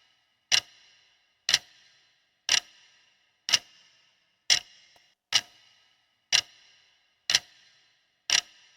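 Countdown-timer clock ticking, one sharp tick about every second, each with a short metallic ring.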